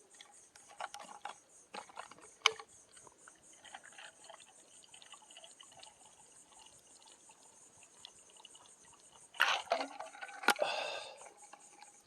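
Handling sounds of a water bottle at a drinking break: a few small clicks, then a louder stretch of water sloshing with a sharp click about ten seconds in. Behind it, insects chirp in a fast, high, even pulse.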